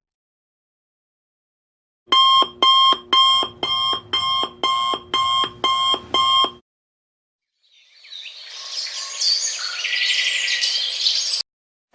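Electronic alarm beeping: a rapid run of about a dozen evenly spaced high beeps, a bit over two a second, lasting about four and a half seconds. Then a noisier, chirpy sound swells up and cuts off abruptly.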